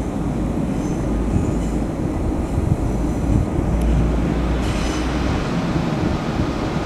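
A train running past on the rails with a steady, heavy low rumble, and faint high-pitched wheel squeals about a second in and again near five seconds.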